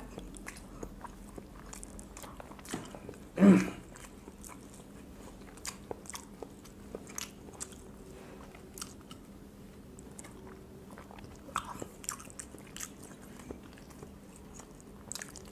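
Mouths chewing and biting boiled quail eggs at speed: wet chewing with many small, irregular clicks. A short voiced sound, like a grunt, comes about three and a half seconds in.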